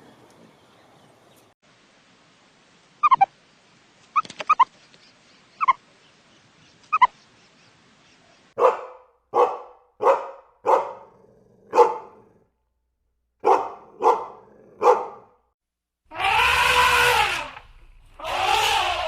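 A dog barking. A few short, sharp yelps start about three seconds in, then about eight barks follow one after another, roughly one a second. Near the end come two longer, louder calls.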